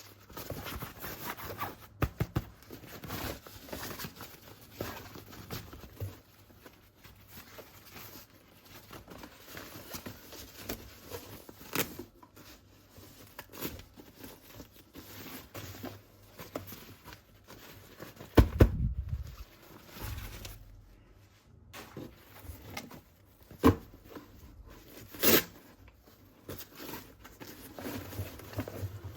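Plastic toy pieces and packaging being handled: scattered clicks, taps and rustling, with a heavier knock about two-thirds of the way in and two sharp clicks near the end.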